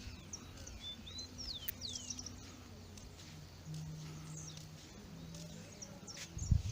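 Birds chirping, many short high calls sweeping up and down, over low steady outdoor noise. A low hum comes in briefly past the middle, and a single loud knock sounds near the end.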